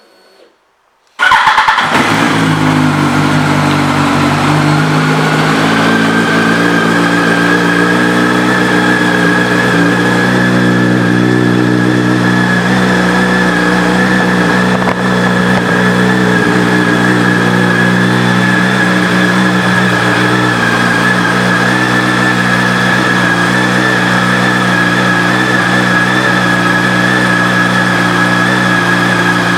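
2006 Yamaha YZF-R1's inline-four engine with a Yoshimura exhaust starting up about a second in, then idling steadily. The idle settles a little lower over the first few seconds.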